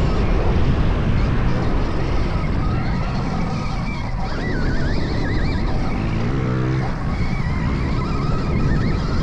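Stark VARG electric dirt bike being ridden hard on a motocross track: heavy wind and track rush on the camera microphone, with the electric motor's thin whine rising and falling as the throttle comes on and off. A short lower-pitched drone breaks through for about half a second near the middle.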